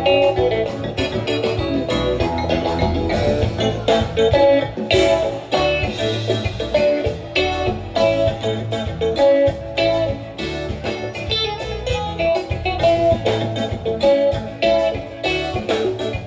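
A live band playing an instrumental passage: guitar and keyboard over bass and drums, with a steady beat.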